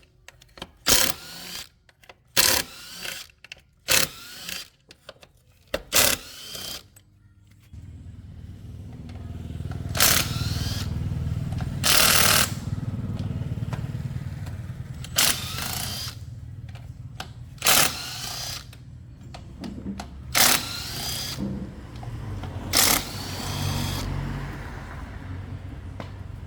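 Motorcycle being started with its electric starter: several short cranking bursts, then the engine catches about eight seconds in and keeps running at a low idle. Several short, louder bursts rise over the idle.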